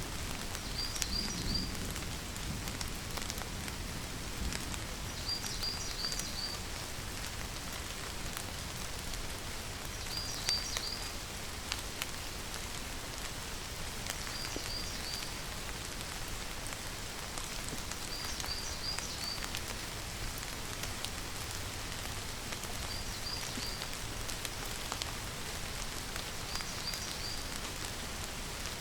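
Steady rain falling, with scattered drop ticks. A short high chirp of three or four quick notes recurs about every four seconds.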